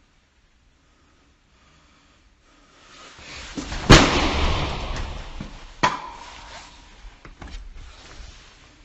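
A hand strikes a plastic-covered door panel hard about four seconds in: one loud bang with rustling around it. A second, lighter hit follows about two seconds later, then a few small knocks.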